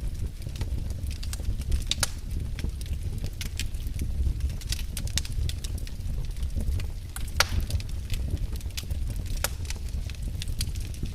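Campfire crackling, with irregular sharp pops several times a second over a low steady rumble of the flames; one louder pop comes about two-thirds of the way in.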